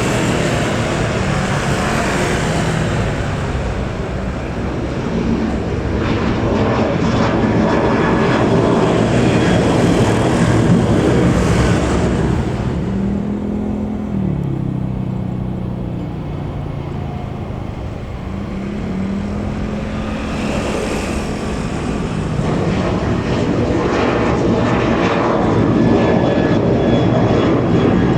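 Airliner engines heard from beside the airport, a loud roar that swells and eases, with a low tone that slides down in pitch about halfway through as the aircraft passes.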